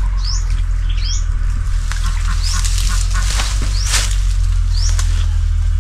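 A bird repeating a short rising whistled call about once a second, over a steady low hum, with a brief rustle in the middle.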